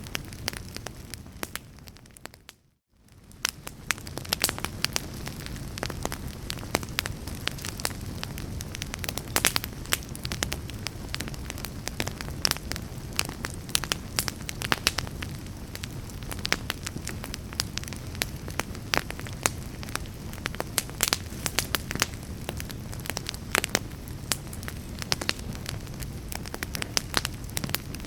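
Wood fire crackling in a fireplace: a steady low rumble of burning logs with frequent sharp pops and snaps. Just under three seconds in, the sound fades briefly to silence and fades back in.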